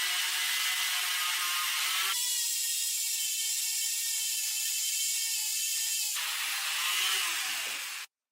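Small high-speed power tool whirring steadily against the steel of rusty antique scissors during restoration work, with abrupt changes in tone partway through. Near the end its pitch falls and the sound cuts off suddenly.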